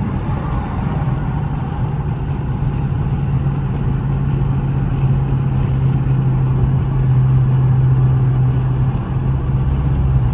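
Dodge Charger R/T's 5.7-litre Hemi V8 with its mid muffler and resonator deleted, droning steadily while cruising, its pitch creeping slightly higher, with a brief dip about nine seconds in.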